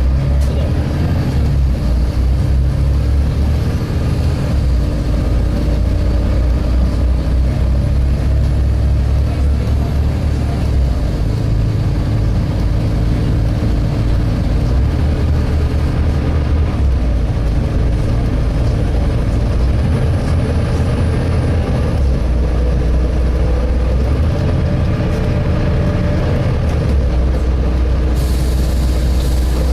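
Inside a Volvo B7TL double-decker bus on the move: the 7-litre six-cylinder diesel drones low, its pitch and level shifting every few seconds as the bus changes speed, under a steady hum. A hiss comes in near the end.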